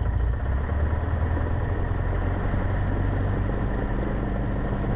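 Cessna 150's four-cylinder Continental O-200 engine running steadily at low power ahead of the take-off run, heard from inside the cockpit.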